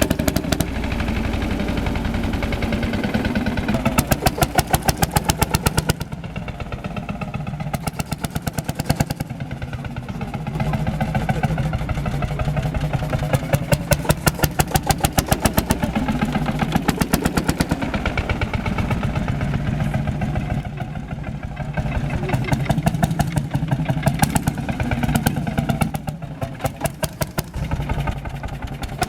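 Ursus C-451 tractor's single-cylinder two-stroke hot-bulb engine running with a steady train of even exhaust beats, getting louder and softer by turns.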